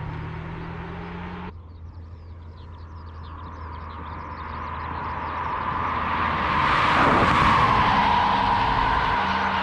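A car approaches and passes, loudest about seven seconds in, its tone dropping as it goes by. It follows a steady engine hum that cuts off abruptly about a second and a half in.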